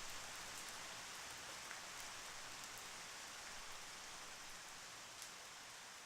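Steady rain: an even hiss of falling rain with a few louder single drops ticking through it, slowly growing quieter.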